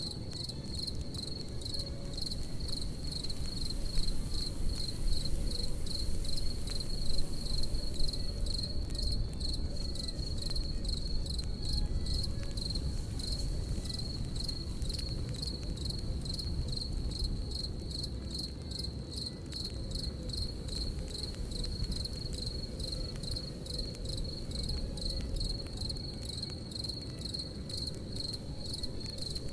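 Crickets chirping steadily, a high trill pulsing about twice a second, over the low rumble of a campfire with a few louder pops between about four and eight seconds in.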